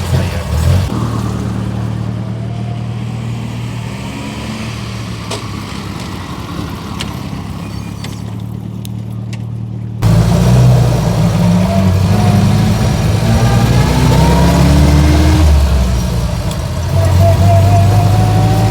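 Austin Seven's small four-cylinder engine running, steady and fairly quiet at low revs at first. About halfway through it is suddenly much louder, its pitch rising and falling as it is revved and driven.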